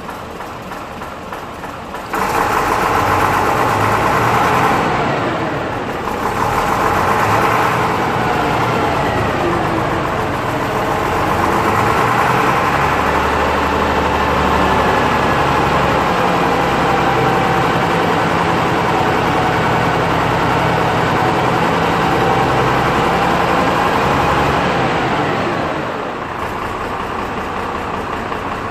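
Leyland 510 turbocharged straight-six diesel in a Leyland National Mk1 bus, still cold and warming up. It idles, is raised to a fast, wavering run about two seconds in, and drops back to idle a couple of seconds before the end.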